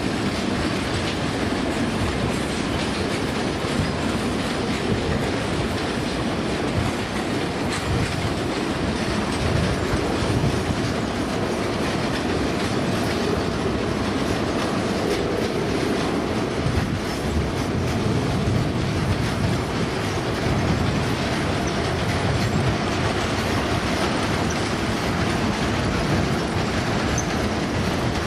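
Freight wagons (container flatcars, tank cars and boxcars) rolling past close by: a steady rumble and clatter of steel wheels on the rails.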